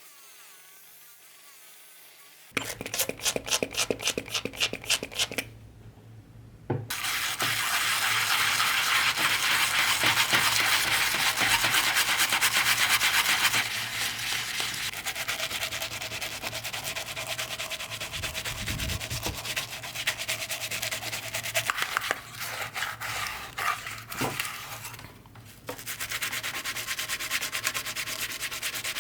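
Abrasive rubbing on a brass tea box: a short run of quick back-and-forth strokes, then long stretches of steady scrubbing that stop briefly twice.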